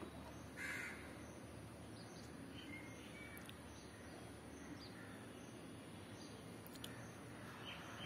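A single harsh bird call about half a second in, then faint, scattered short bird calls over a steady low background hum.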